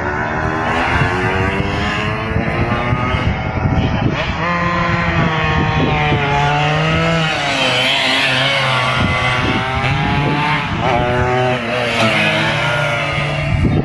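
Several 125 cc class racing underbone motorcycle engines revving hard at once, their pitch rising and falling over and over as the bikes accelerate, change gear and slow for turns.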